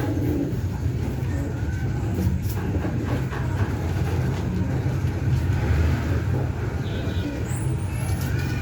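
Steady low background rumble with faint scattered higher sounds over it.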